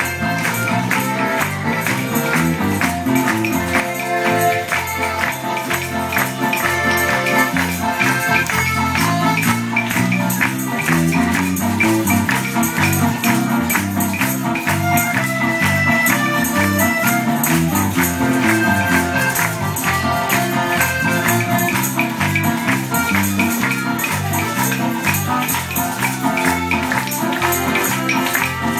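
Live Mexican popular music from a small acoustic band: accordion and guitars over a moving bass line, with tambourines shaken on a steady beat.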